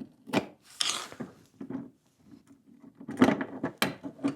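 Flathead screwdriver and metal parts knocking and clattering while a fuel pressure regulator is worked loose: a string of sharp knocks, bunched near the start and again about three seconds in.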